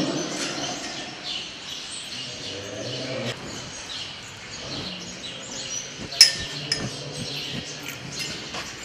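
Small birds chirping in short, repeated calls inside a cattle barn. A sharp metallic clink comes about six seconds in, the loudest sound, with a lighter click just after.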